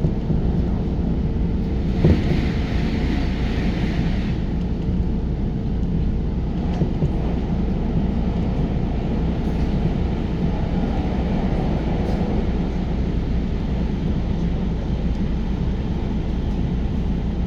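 Electric commuter train running at speed, heard inside the carriage as a steady low rumble. About two seconds in there is a single knock, followed by a hiss that lasts about two seconds.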